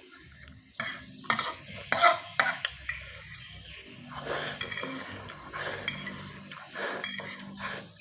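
Cutlery clinking and scraping against a dish while stirring and eating Indomie instant noodles: a few sharp clicks in the first half, then longer swishing stirs in the second half.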